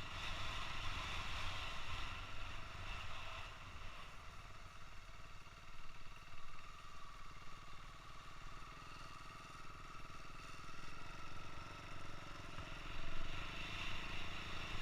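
Motorcycle running along the road, a steady engine and road sound heard from the rider's helmet.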